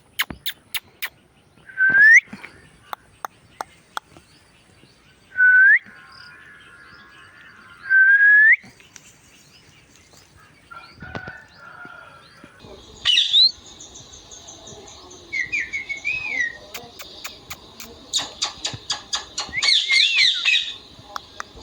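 Indian ringneck parrot calling: three short, loud calls that sweep upward, spaced a few seconds apart, with sharp clicks in between. In the second half come quicker warbling chirps over a steady high tone.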